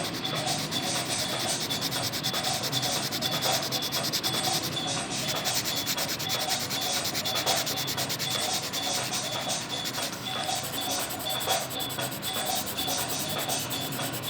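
Rapid, continuous back-and-forth strokes of a drawing tool rubbing on paper, as in shading or colouring in.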